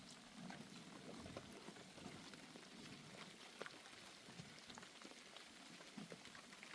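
Faint steady rain, with scattered individual drops ticking.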